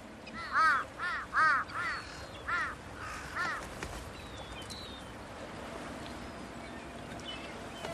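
A large bird calling in a quick series of five or six short, arched, rising-and-falling notes over the first three and a half seconds, then only a faint steady hiss.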